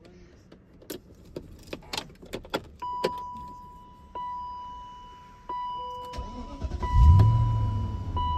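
Keys clicking and jangling in the ignition of a 2003 BMW Alpina Roadster while a dashboard chime sounds one clear tone about every second and a half. About six seconds in, the V8 cranks and catches on a cold start, flaring loudest for a moment before settling into a steady low idle.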